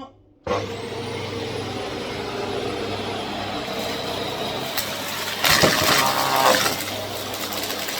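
Vax Air Steerable Max bagless upright vacuum cleaner switched on about half a second in, its motor whine rising as it spins up, then running steadily. About halfway through it gets louder and crackly for about a second as it sucks up the test mess.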